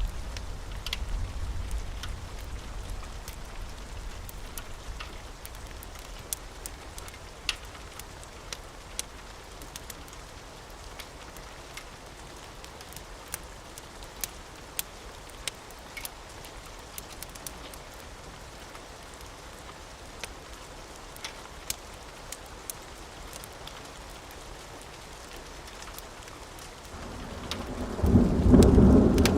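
Steady rain with scattered sharp crackles from a fireplace, a low thunder rumble dying away in the first few seconds. Near the end a loud roll of thunder swells up and keeps rumbling.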